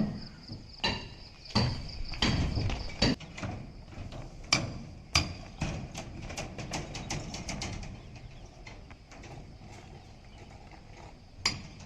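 Irregular knocks and clanks of tools and materials being handled on a concrete slab pour, with a faint high steady whine that stops about four seconds in.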